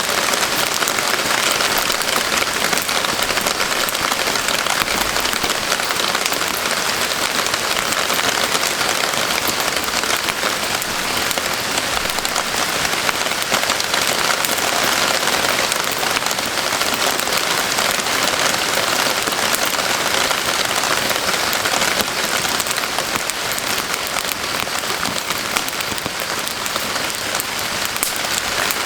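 Steady rain falling on a surface: a dense, even patter of drops that holds at one level throughout.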